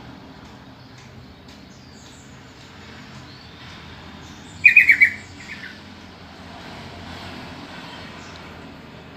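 Sooty-headed bulbul (trucukan) giving a short, loud burst of about five quick call notes about halfway through, followed by a couple of fainter notes. Faint high chirps sound now and then.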